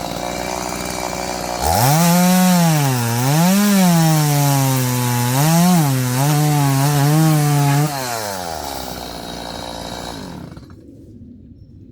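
Chainsaw running at low speed, then revved hard about two seconds in to cut logs for firewood. Its pitch dips and recovers twice as the chain bogs into the wood. It drops back a little before the end and dies away.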